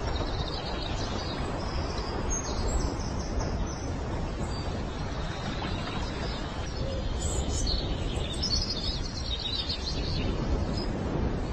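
Steady outdoor noise like wind, with several short bursts of high, thin bird chirping, busiest about eight to nine seconds in.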